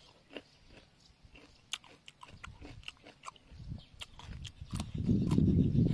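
Close-up eating sounds: crisp crunches and clicks of a person biting and chewing raw cucumber. A loud low rumble sets in about five seconds in and covers the chewing.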